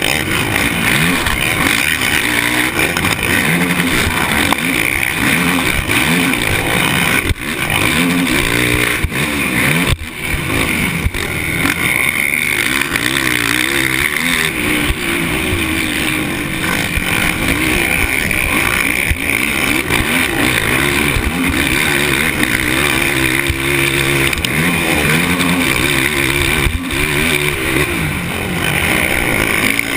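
Motocross bike engine running hard, its pitch rising and falling over and over as the throttle is opened and shut, with brief drops in loudness about seven and ten seconds in.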